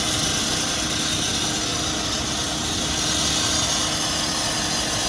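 Fire apparatus engine running steadily, a constant mechanical noise with a faint steady hum.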